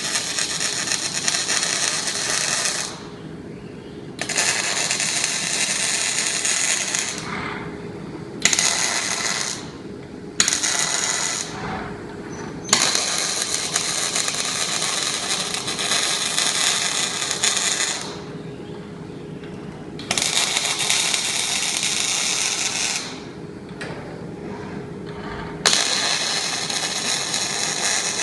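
Robotic welding machine laying a series of welds: seven spells of crackling, hissing arc, each starting sharply and lasting one to five seconds, with short pauses between, over a steady machine hum.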